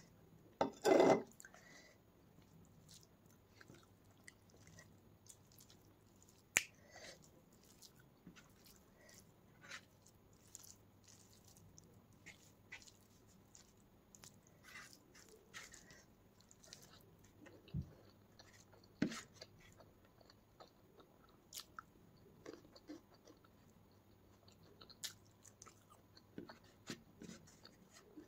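Close-miked eating: fingers squishing rice mixed with curry, and wet chewing with small mouth clicks and smacks. About a second in comes one brief, louder metallic clatter as the steel curry bowl is handled and set down.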